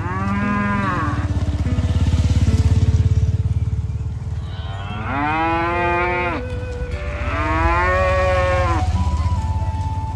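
Cattle mooing: three long, drawn-out moos, the first right at the start, the next about five seconds in and the last about seven seconds in, over a steady low rumble.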